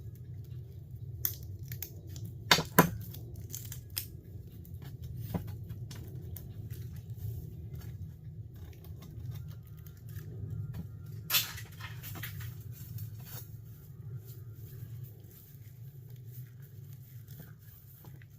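Scattered clicks, knocks and rustling as leftover plastic pieces of a dismantled heater are gathered up and thrown away as trash, over a steady low hum. The sharpest knocks come about two and a half seconds in and again near the middle.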